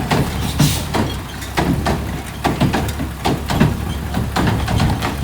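Garbage truck engine idling low and steady, with irregular clanks and knocks, about two or three a second.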